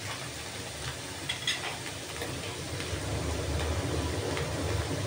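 Sliced mushrooms, onion and garlic frying in oil in a nonstick pan, sizzling steadily, with a couple of light spatula taps about a second and a half to two seconds in. A low rumble under the sizzle grows louder about halfway through.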